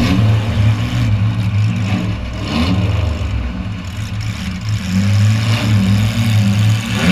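Demolition derby car's engine running loud as heard inside its gutted cabin, mostly at a rough idle, with a short rev about two and a half seconds in.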